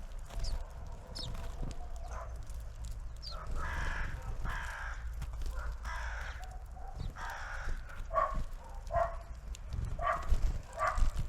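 Crow cawing repeatedly, in short harsh calls that come faster and more evenly in the second half, with a few thin high calls of small birds near the start.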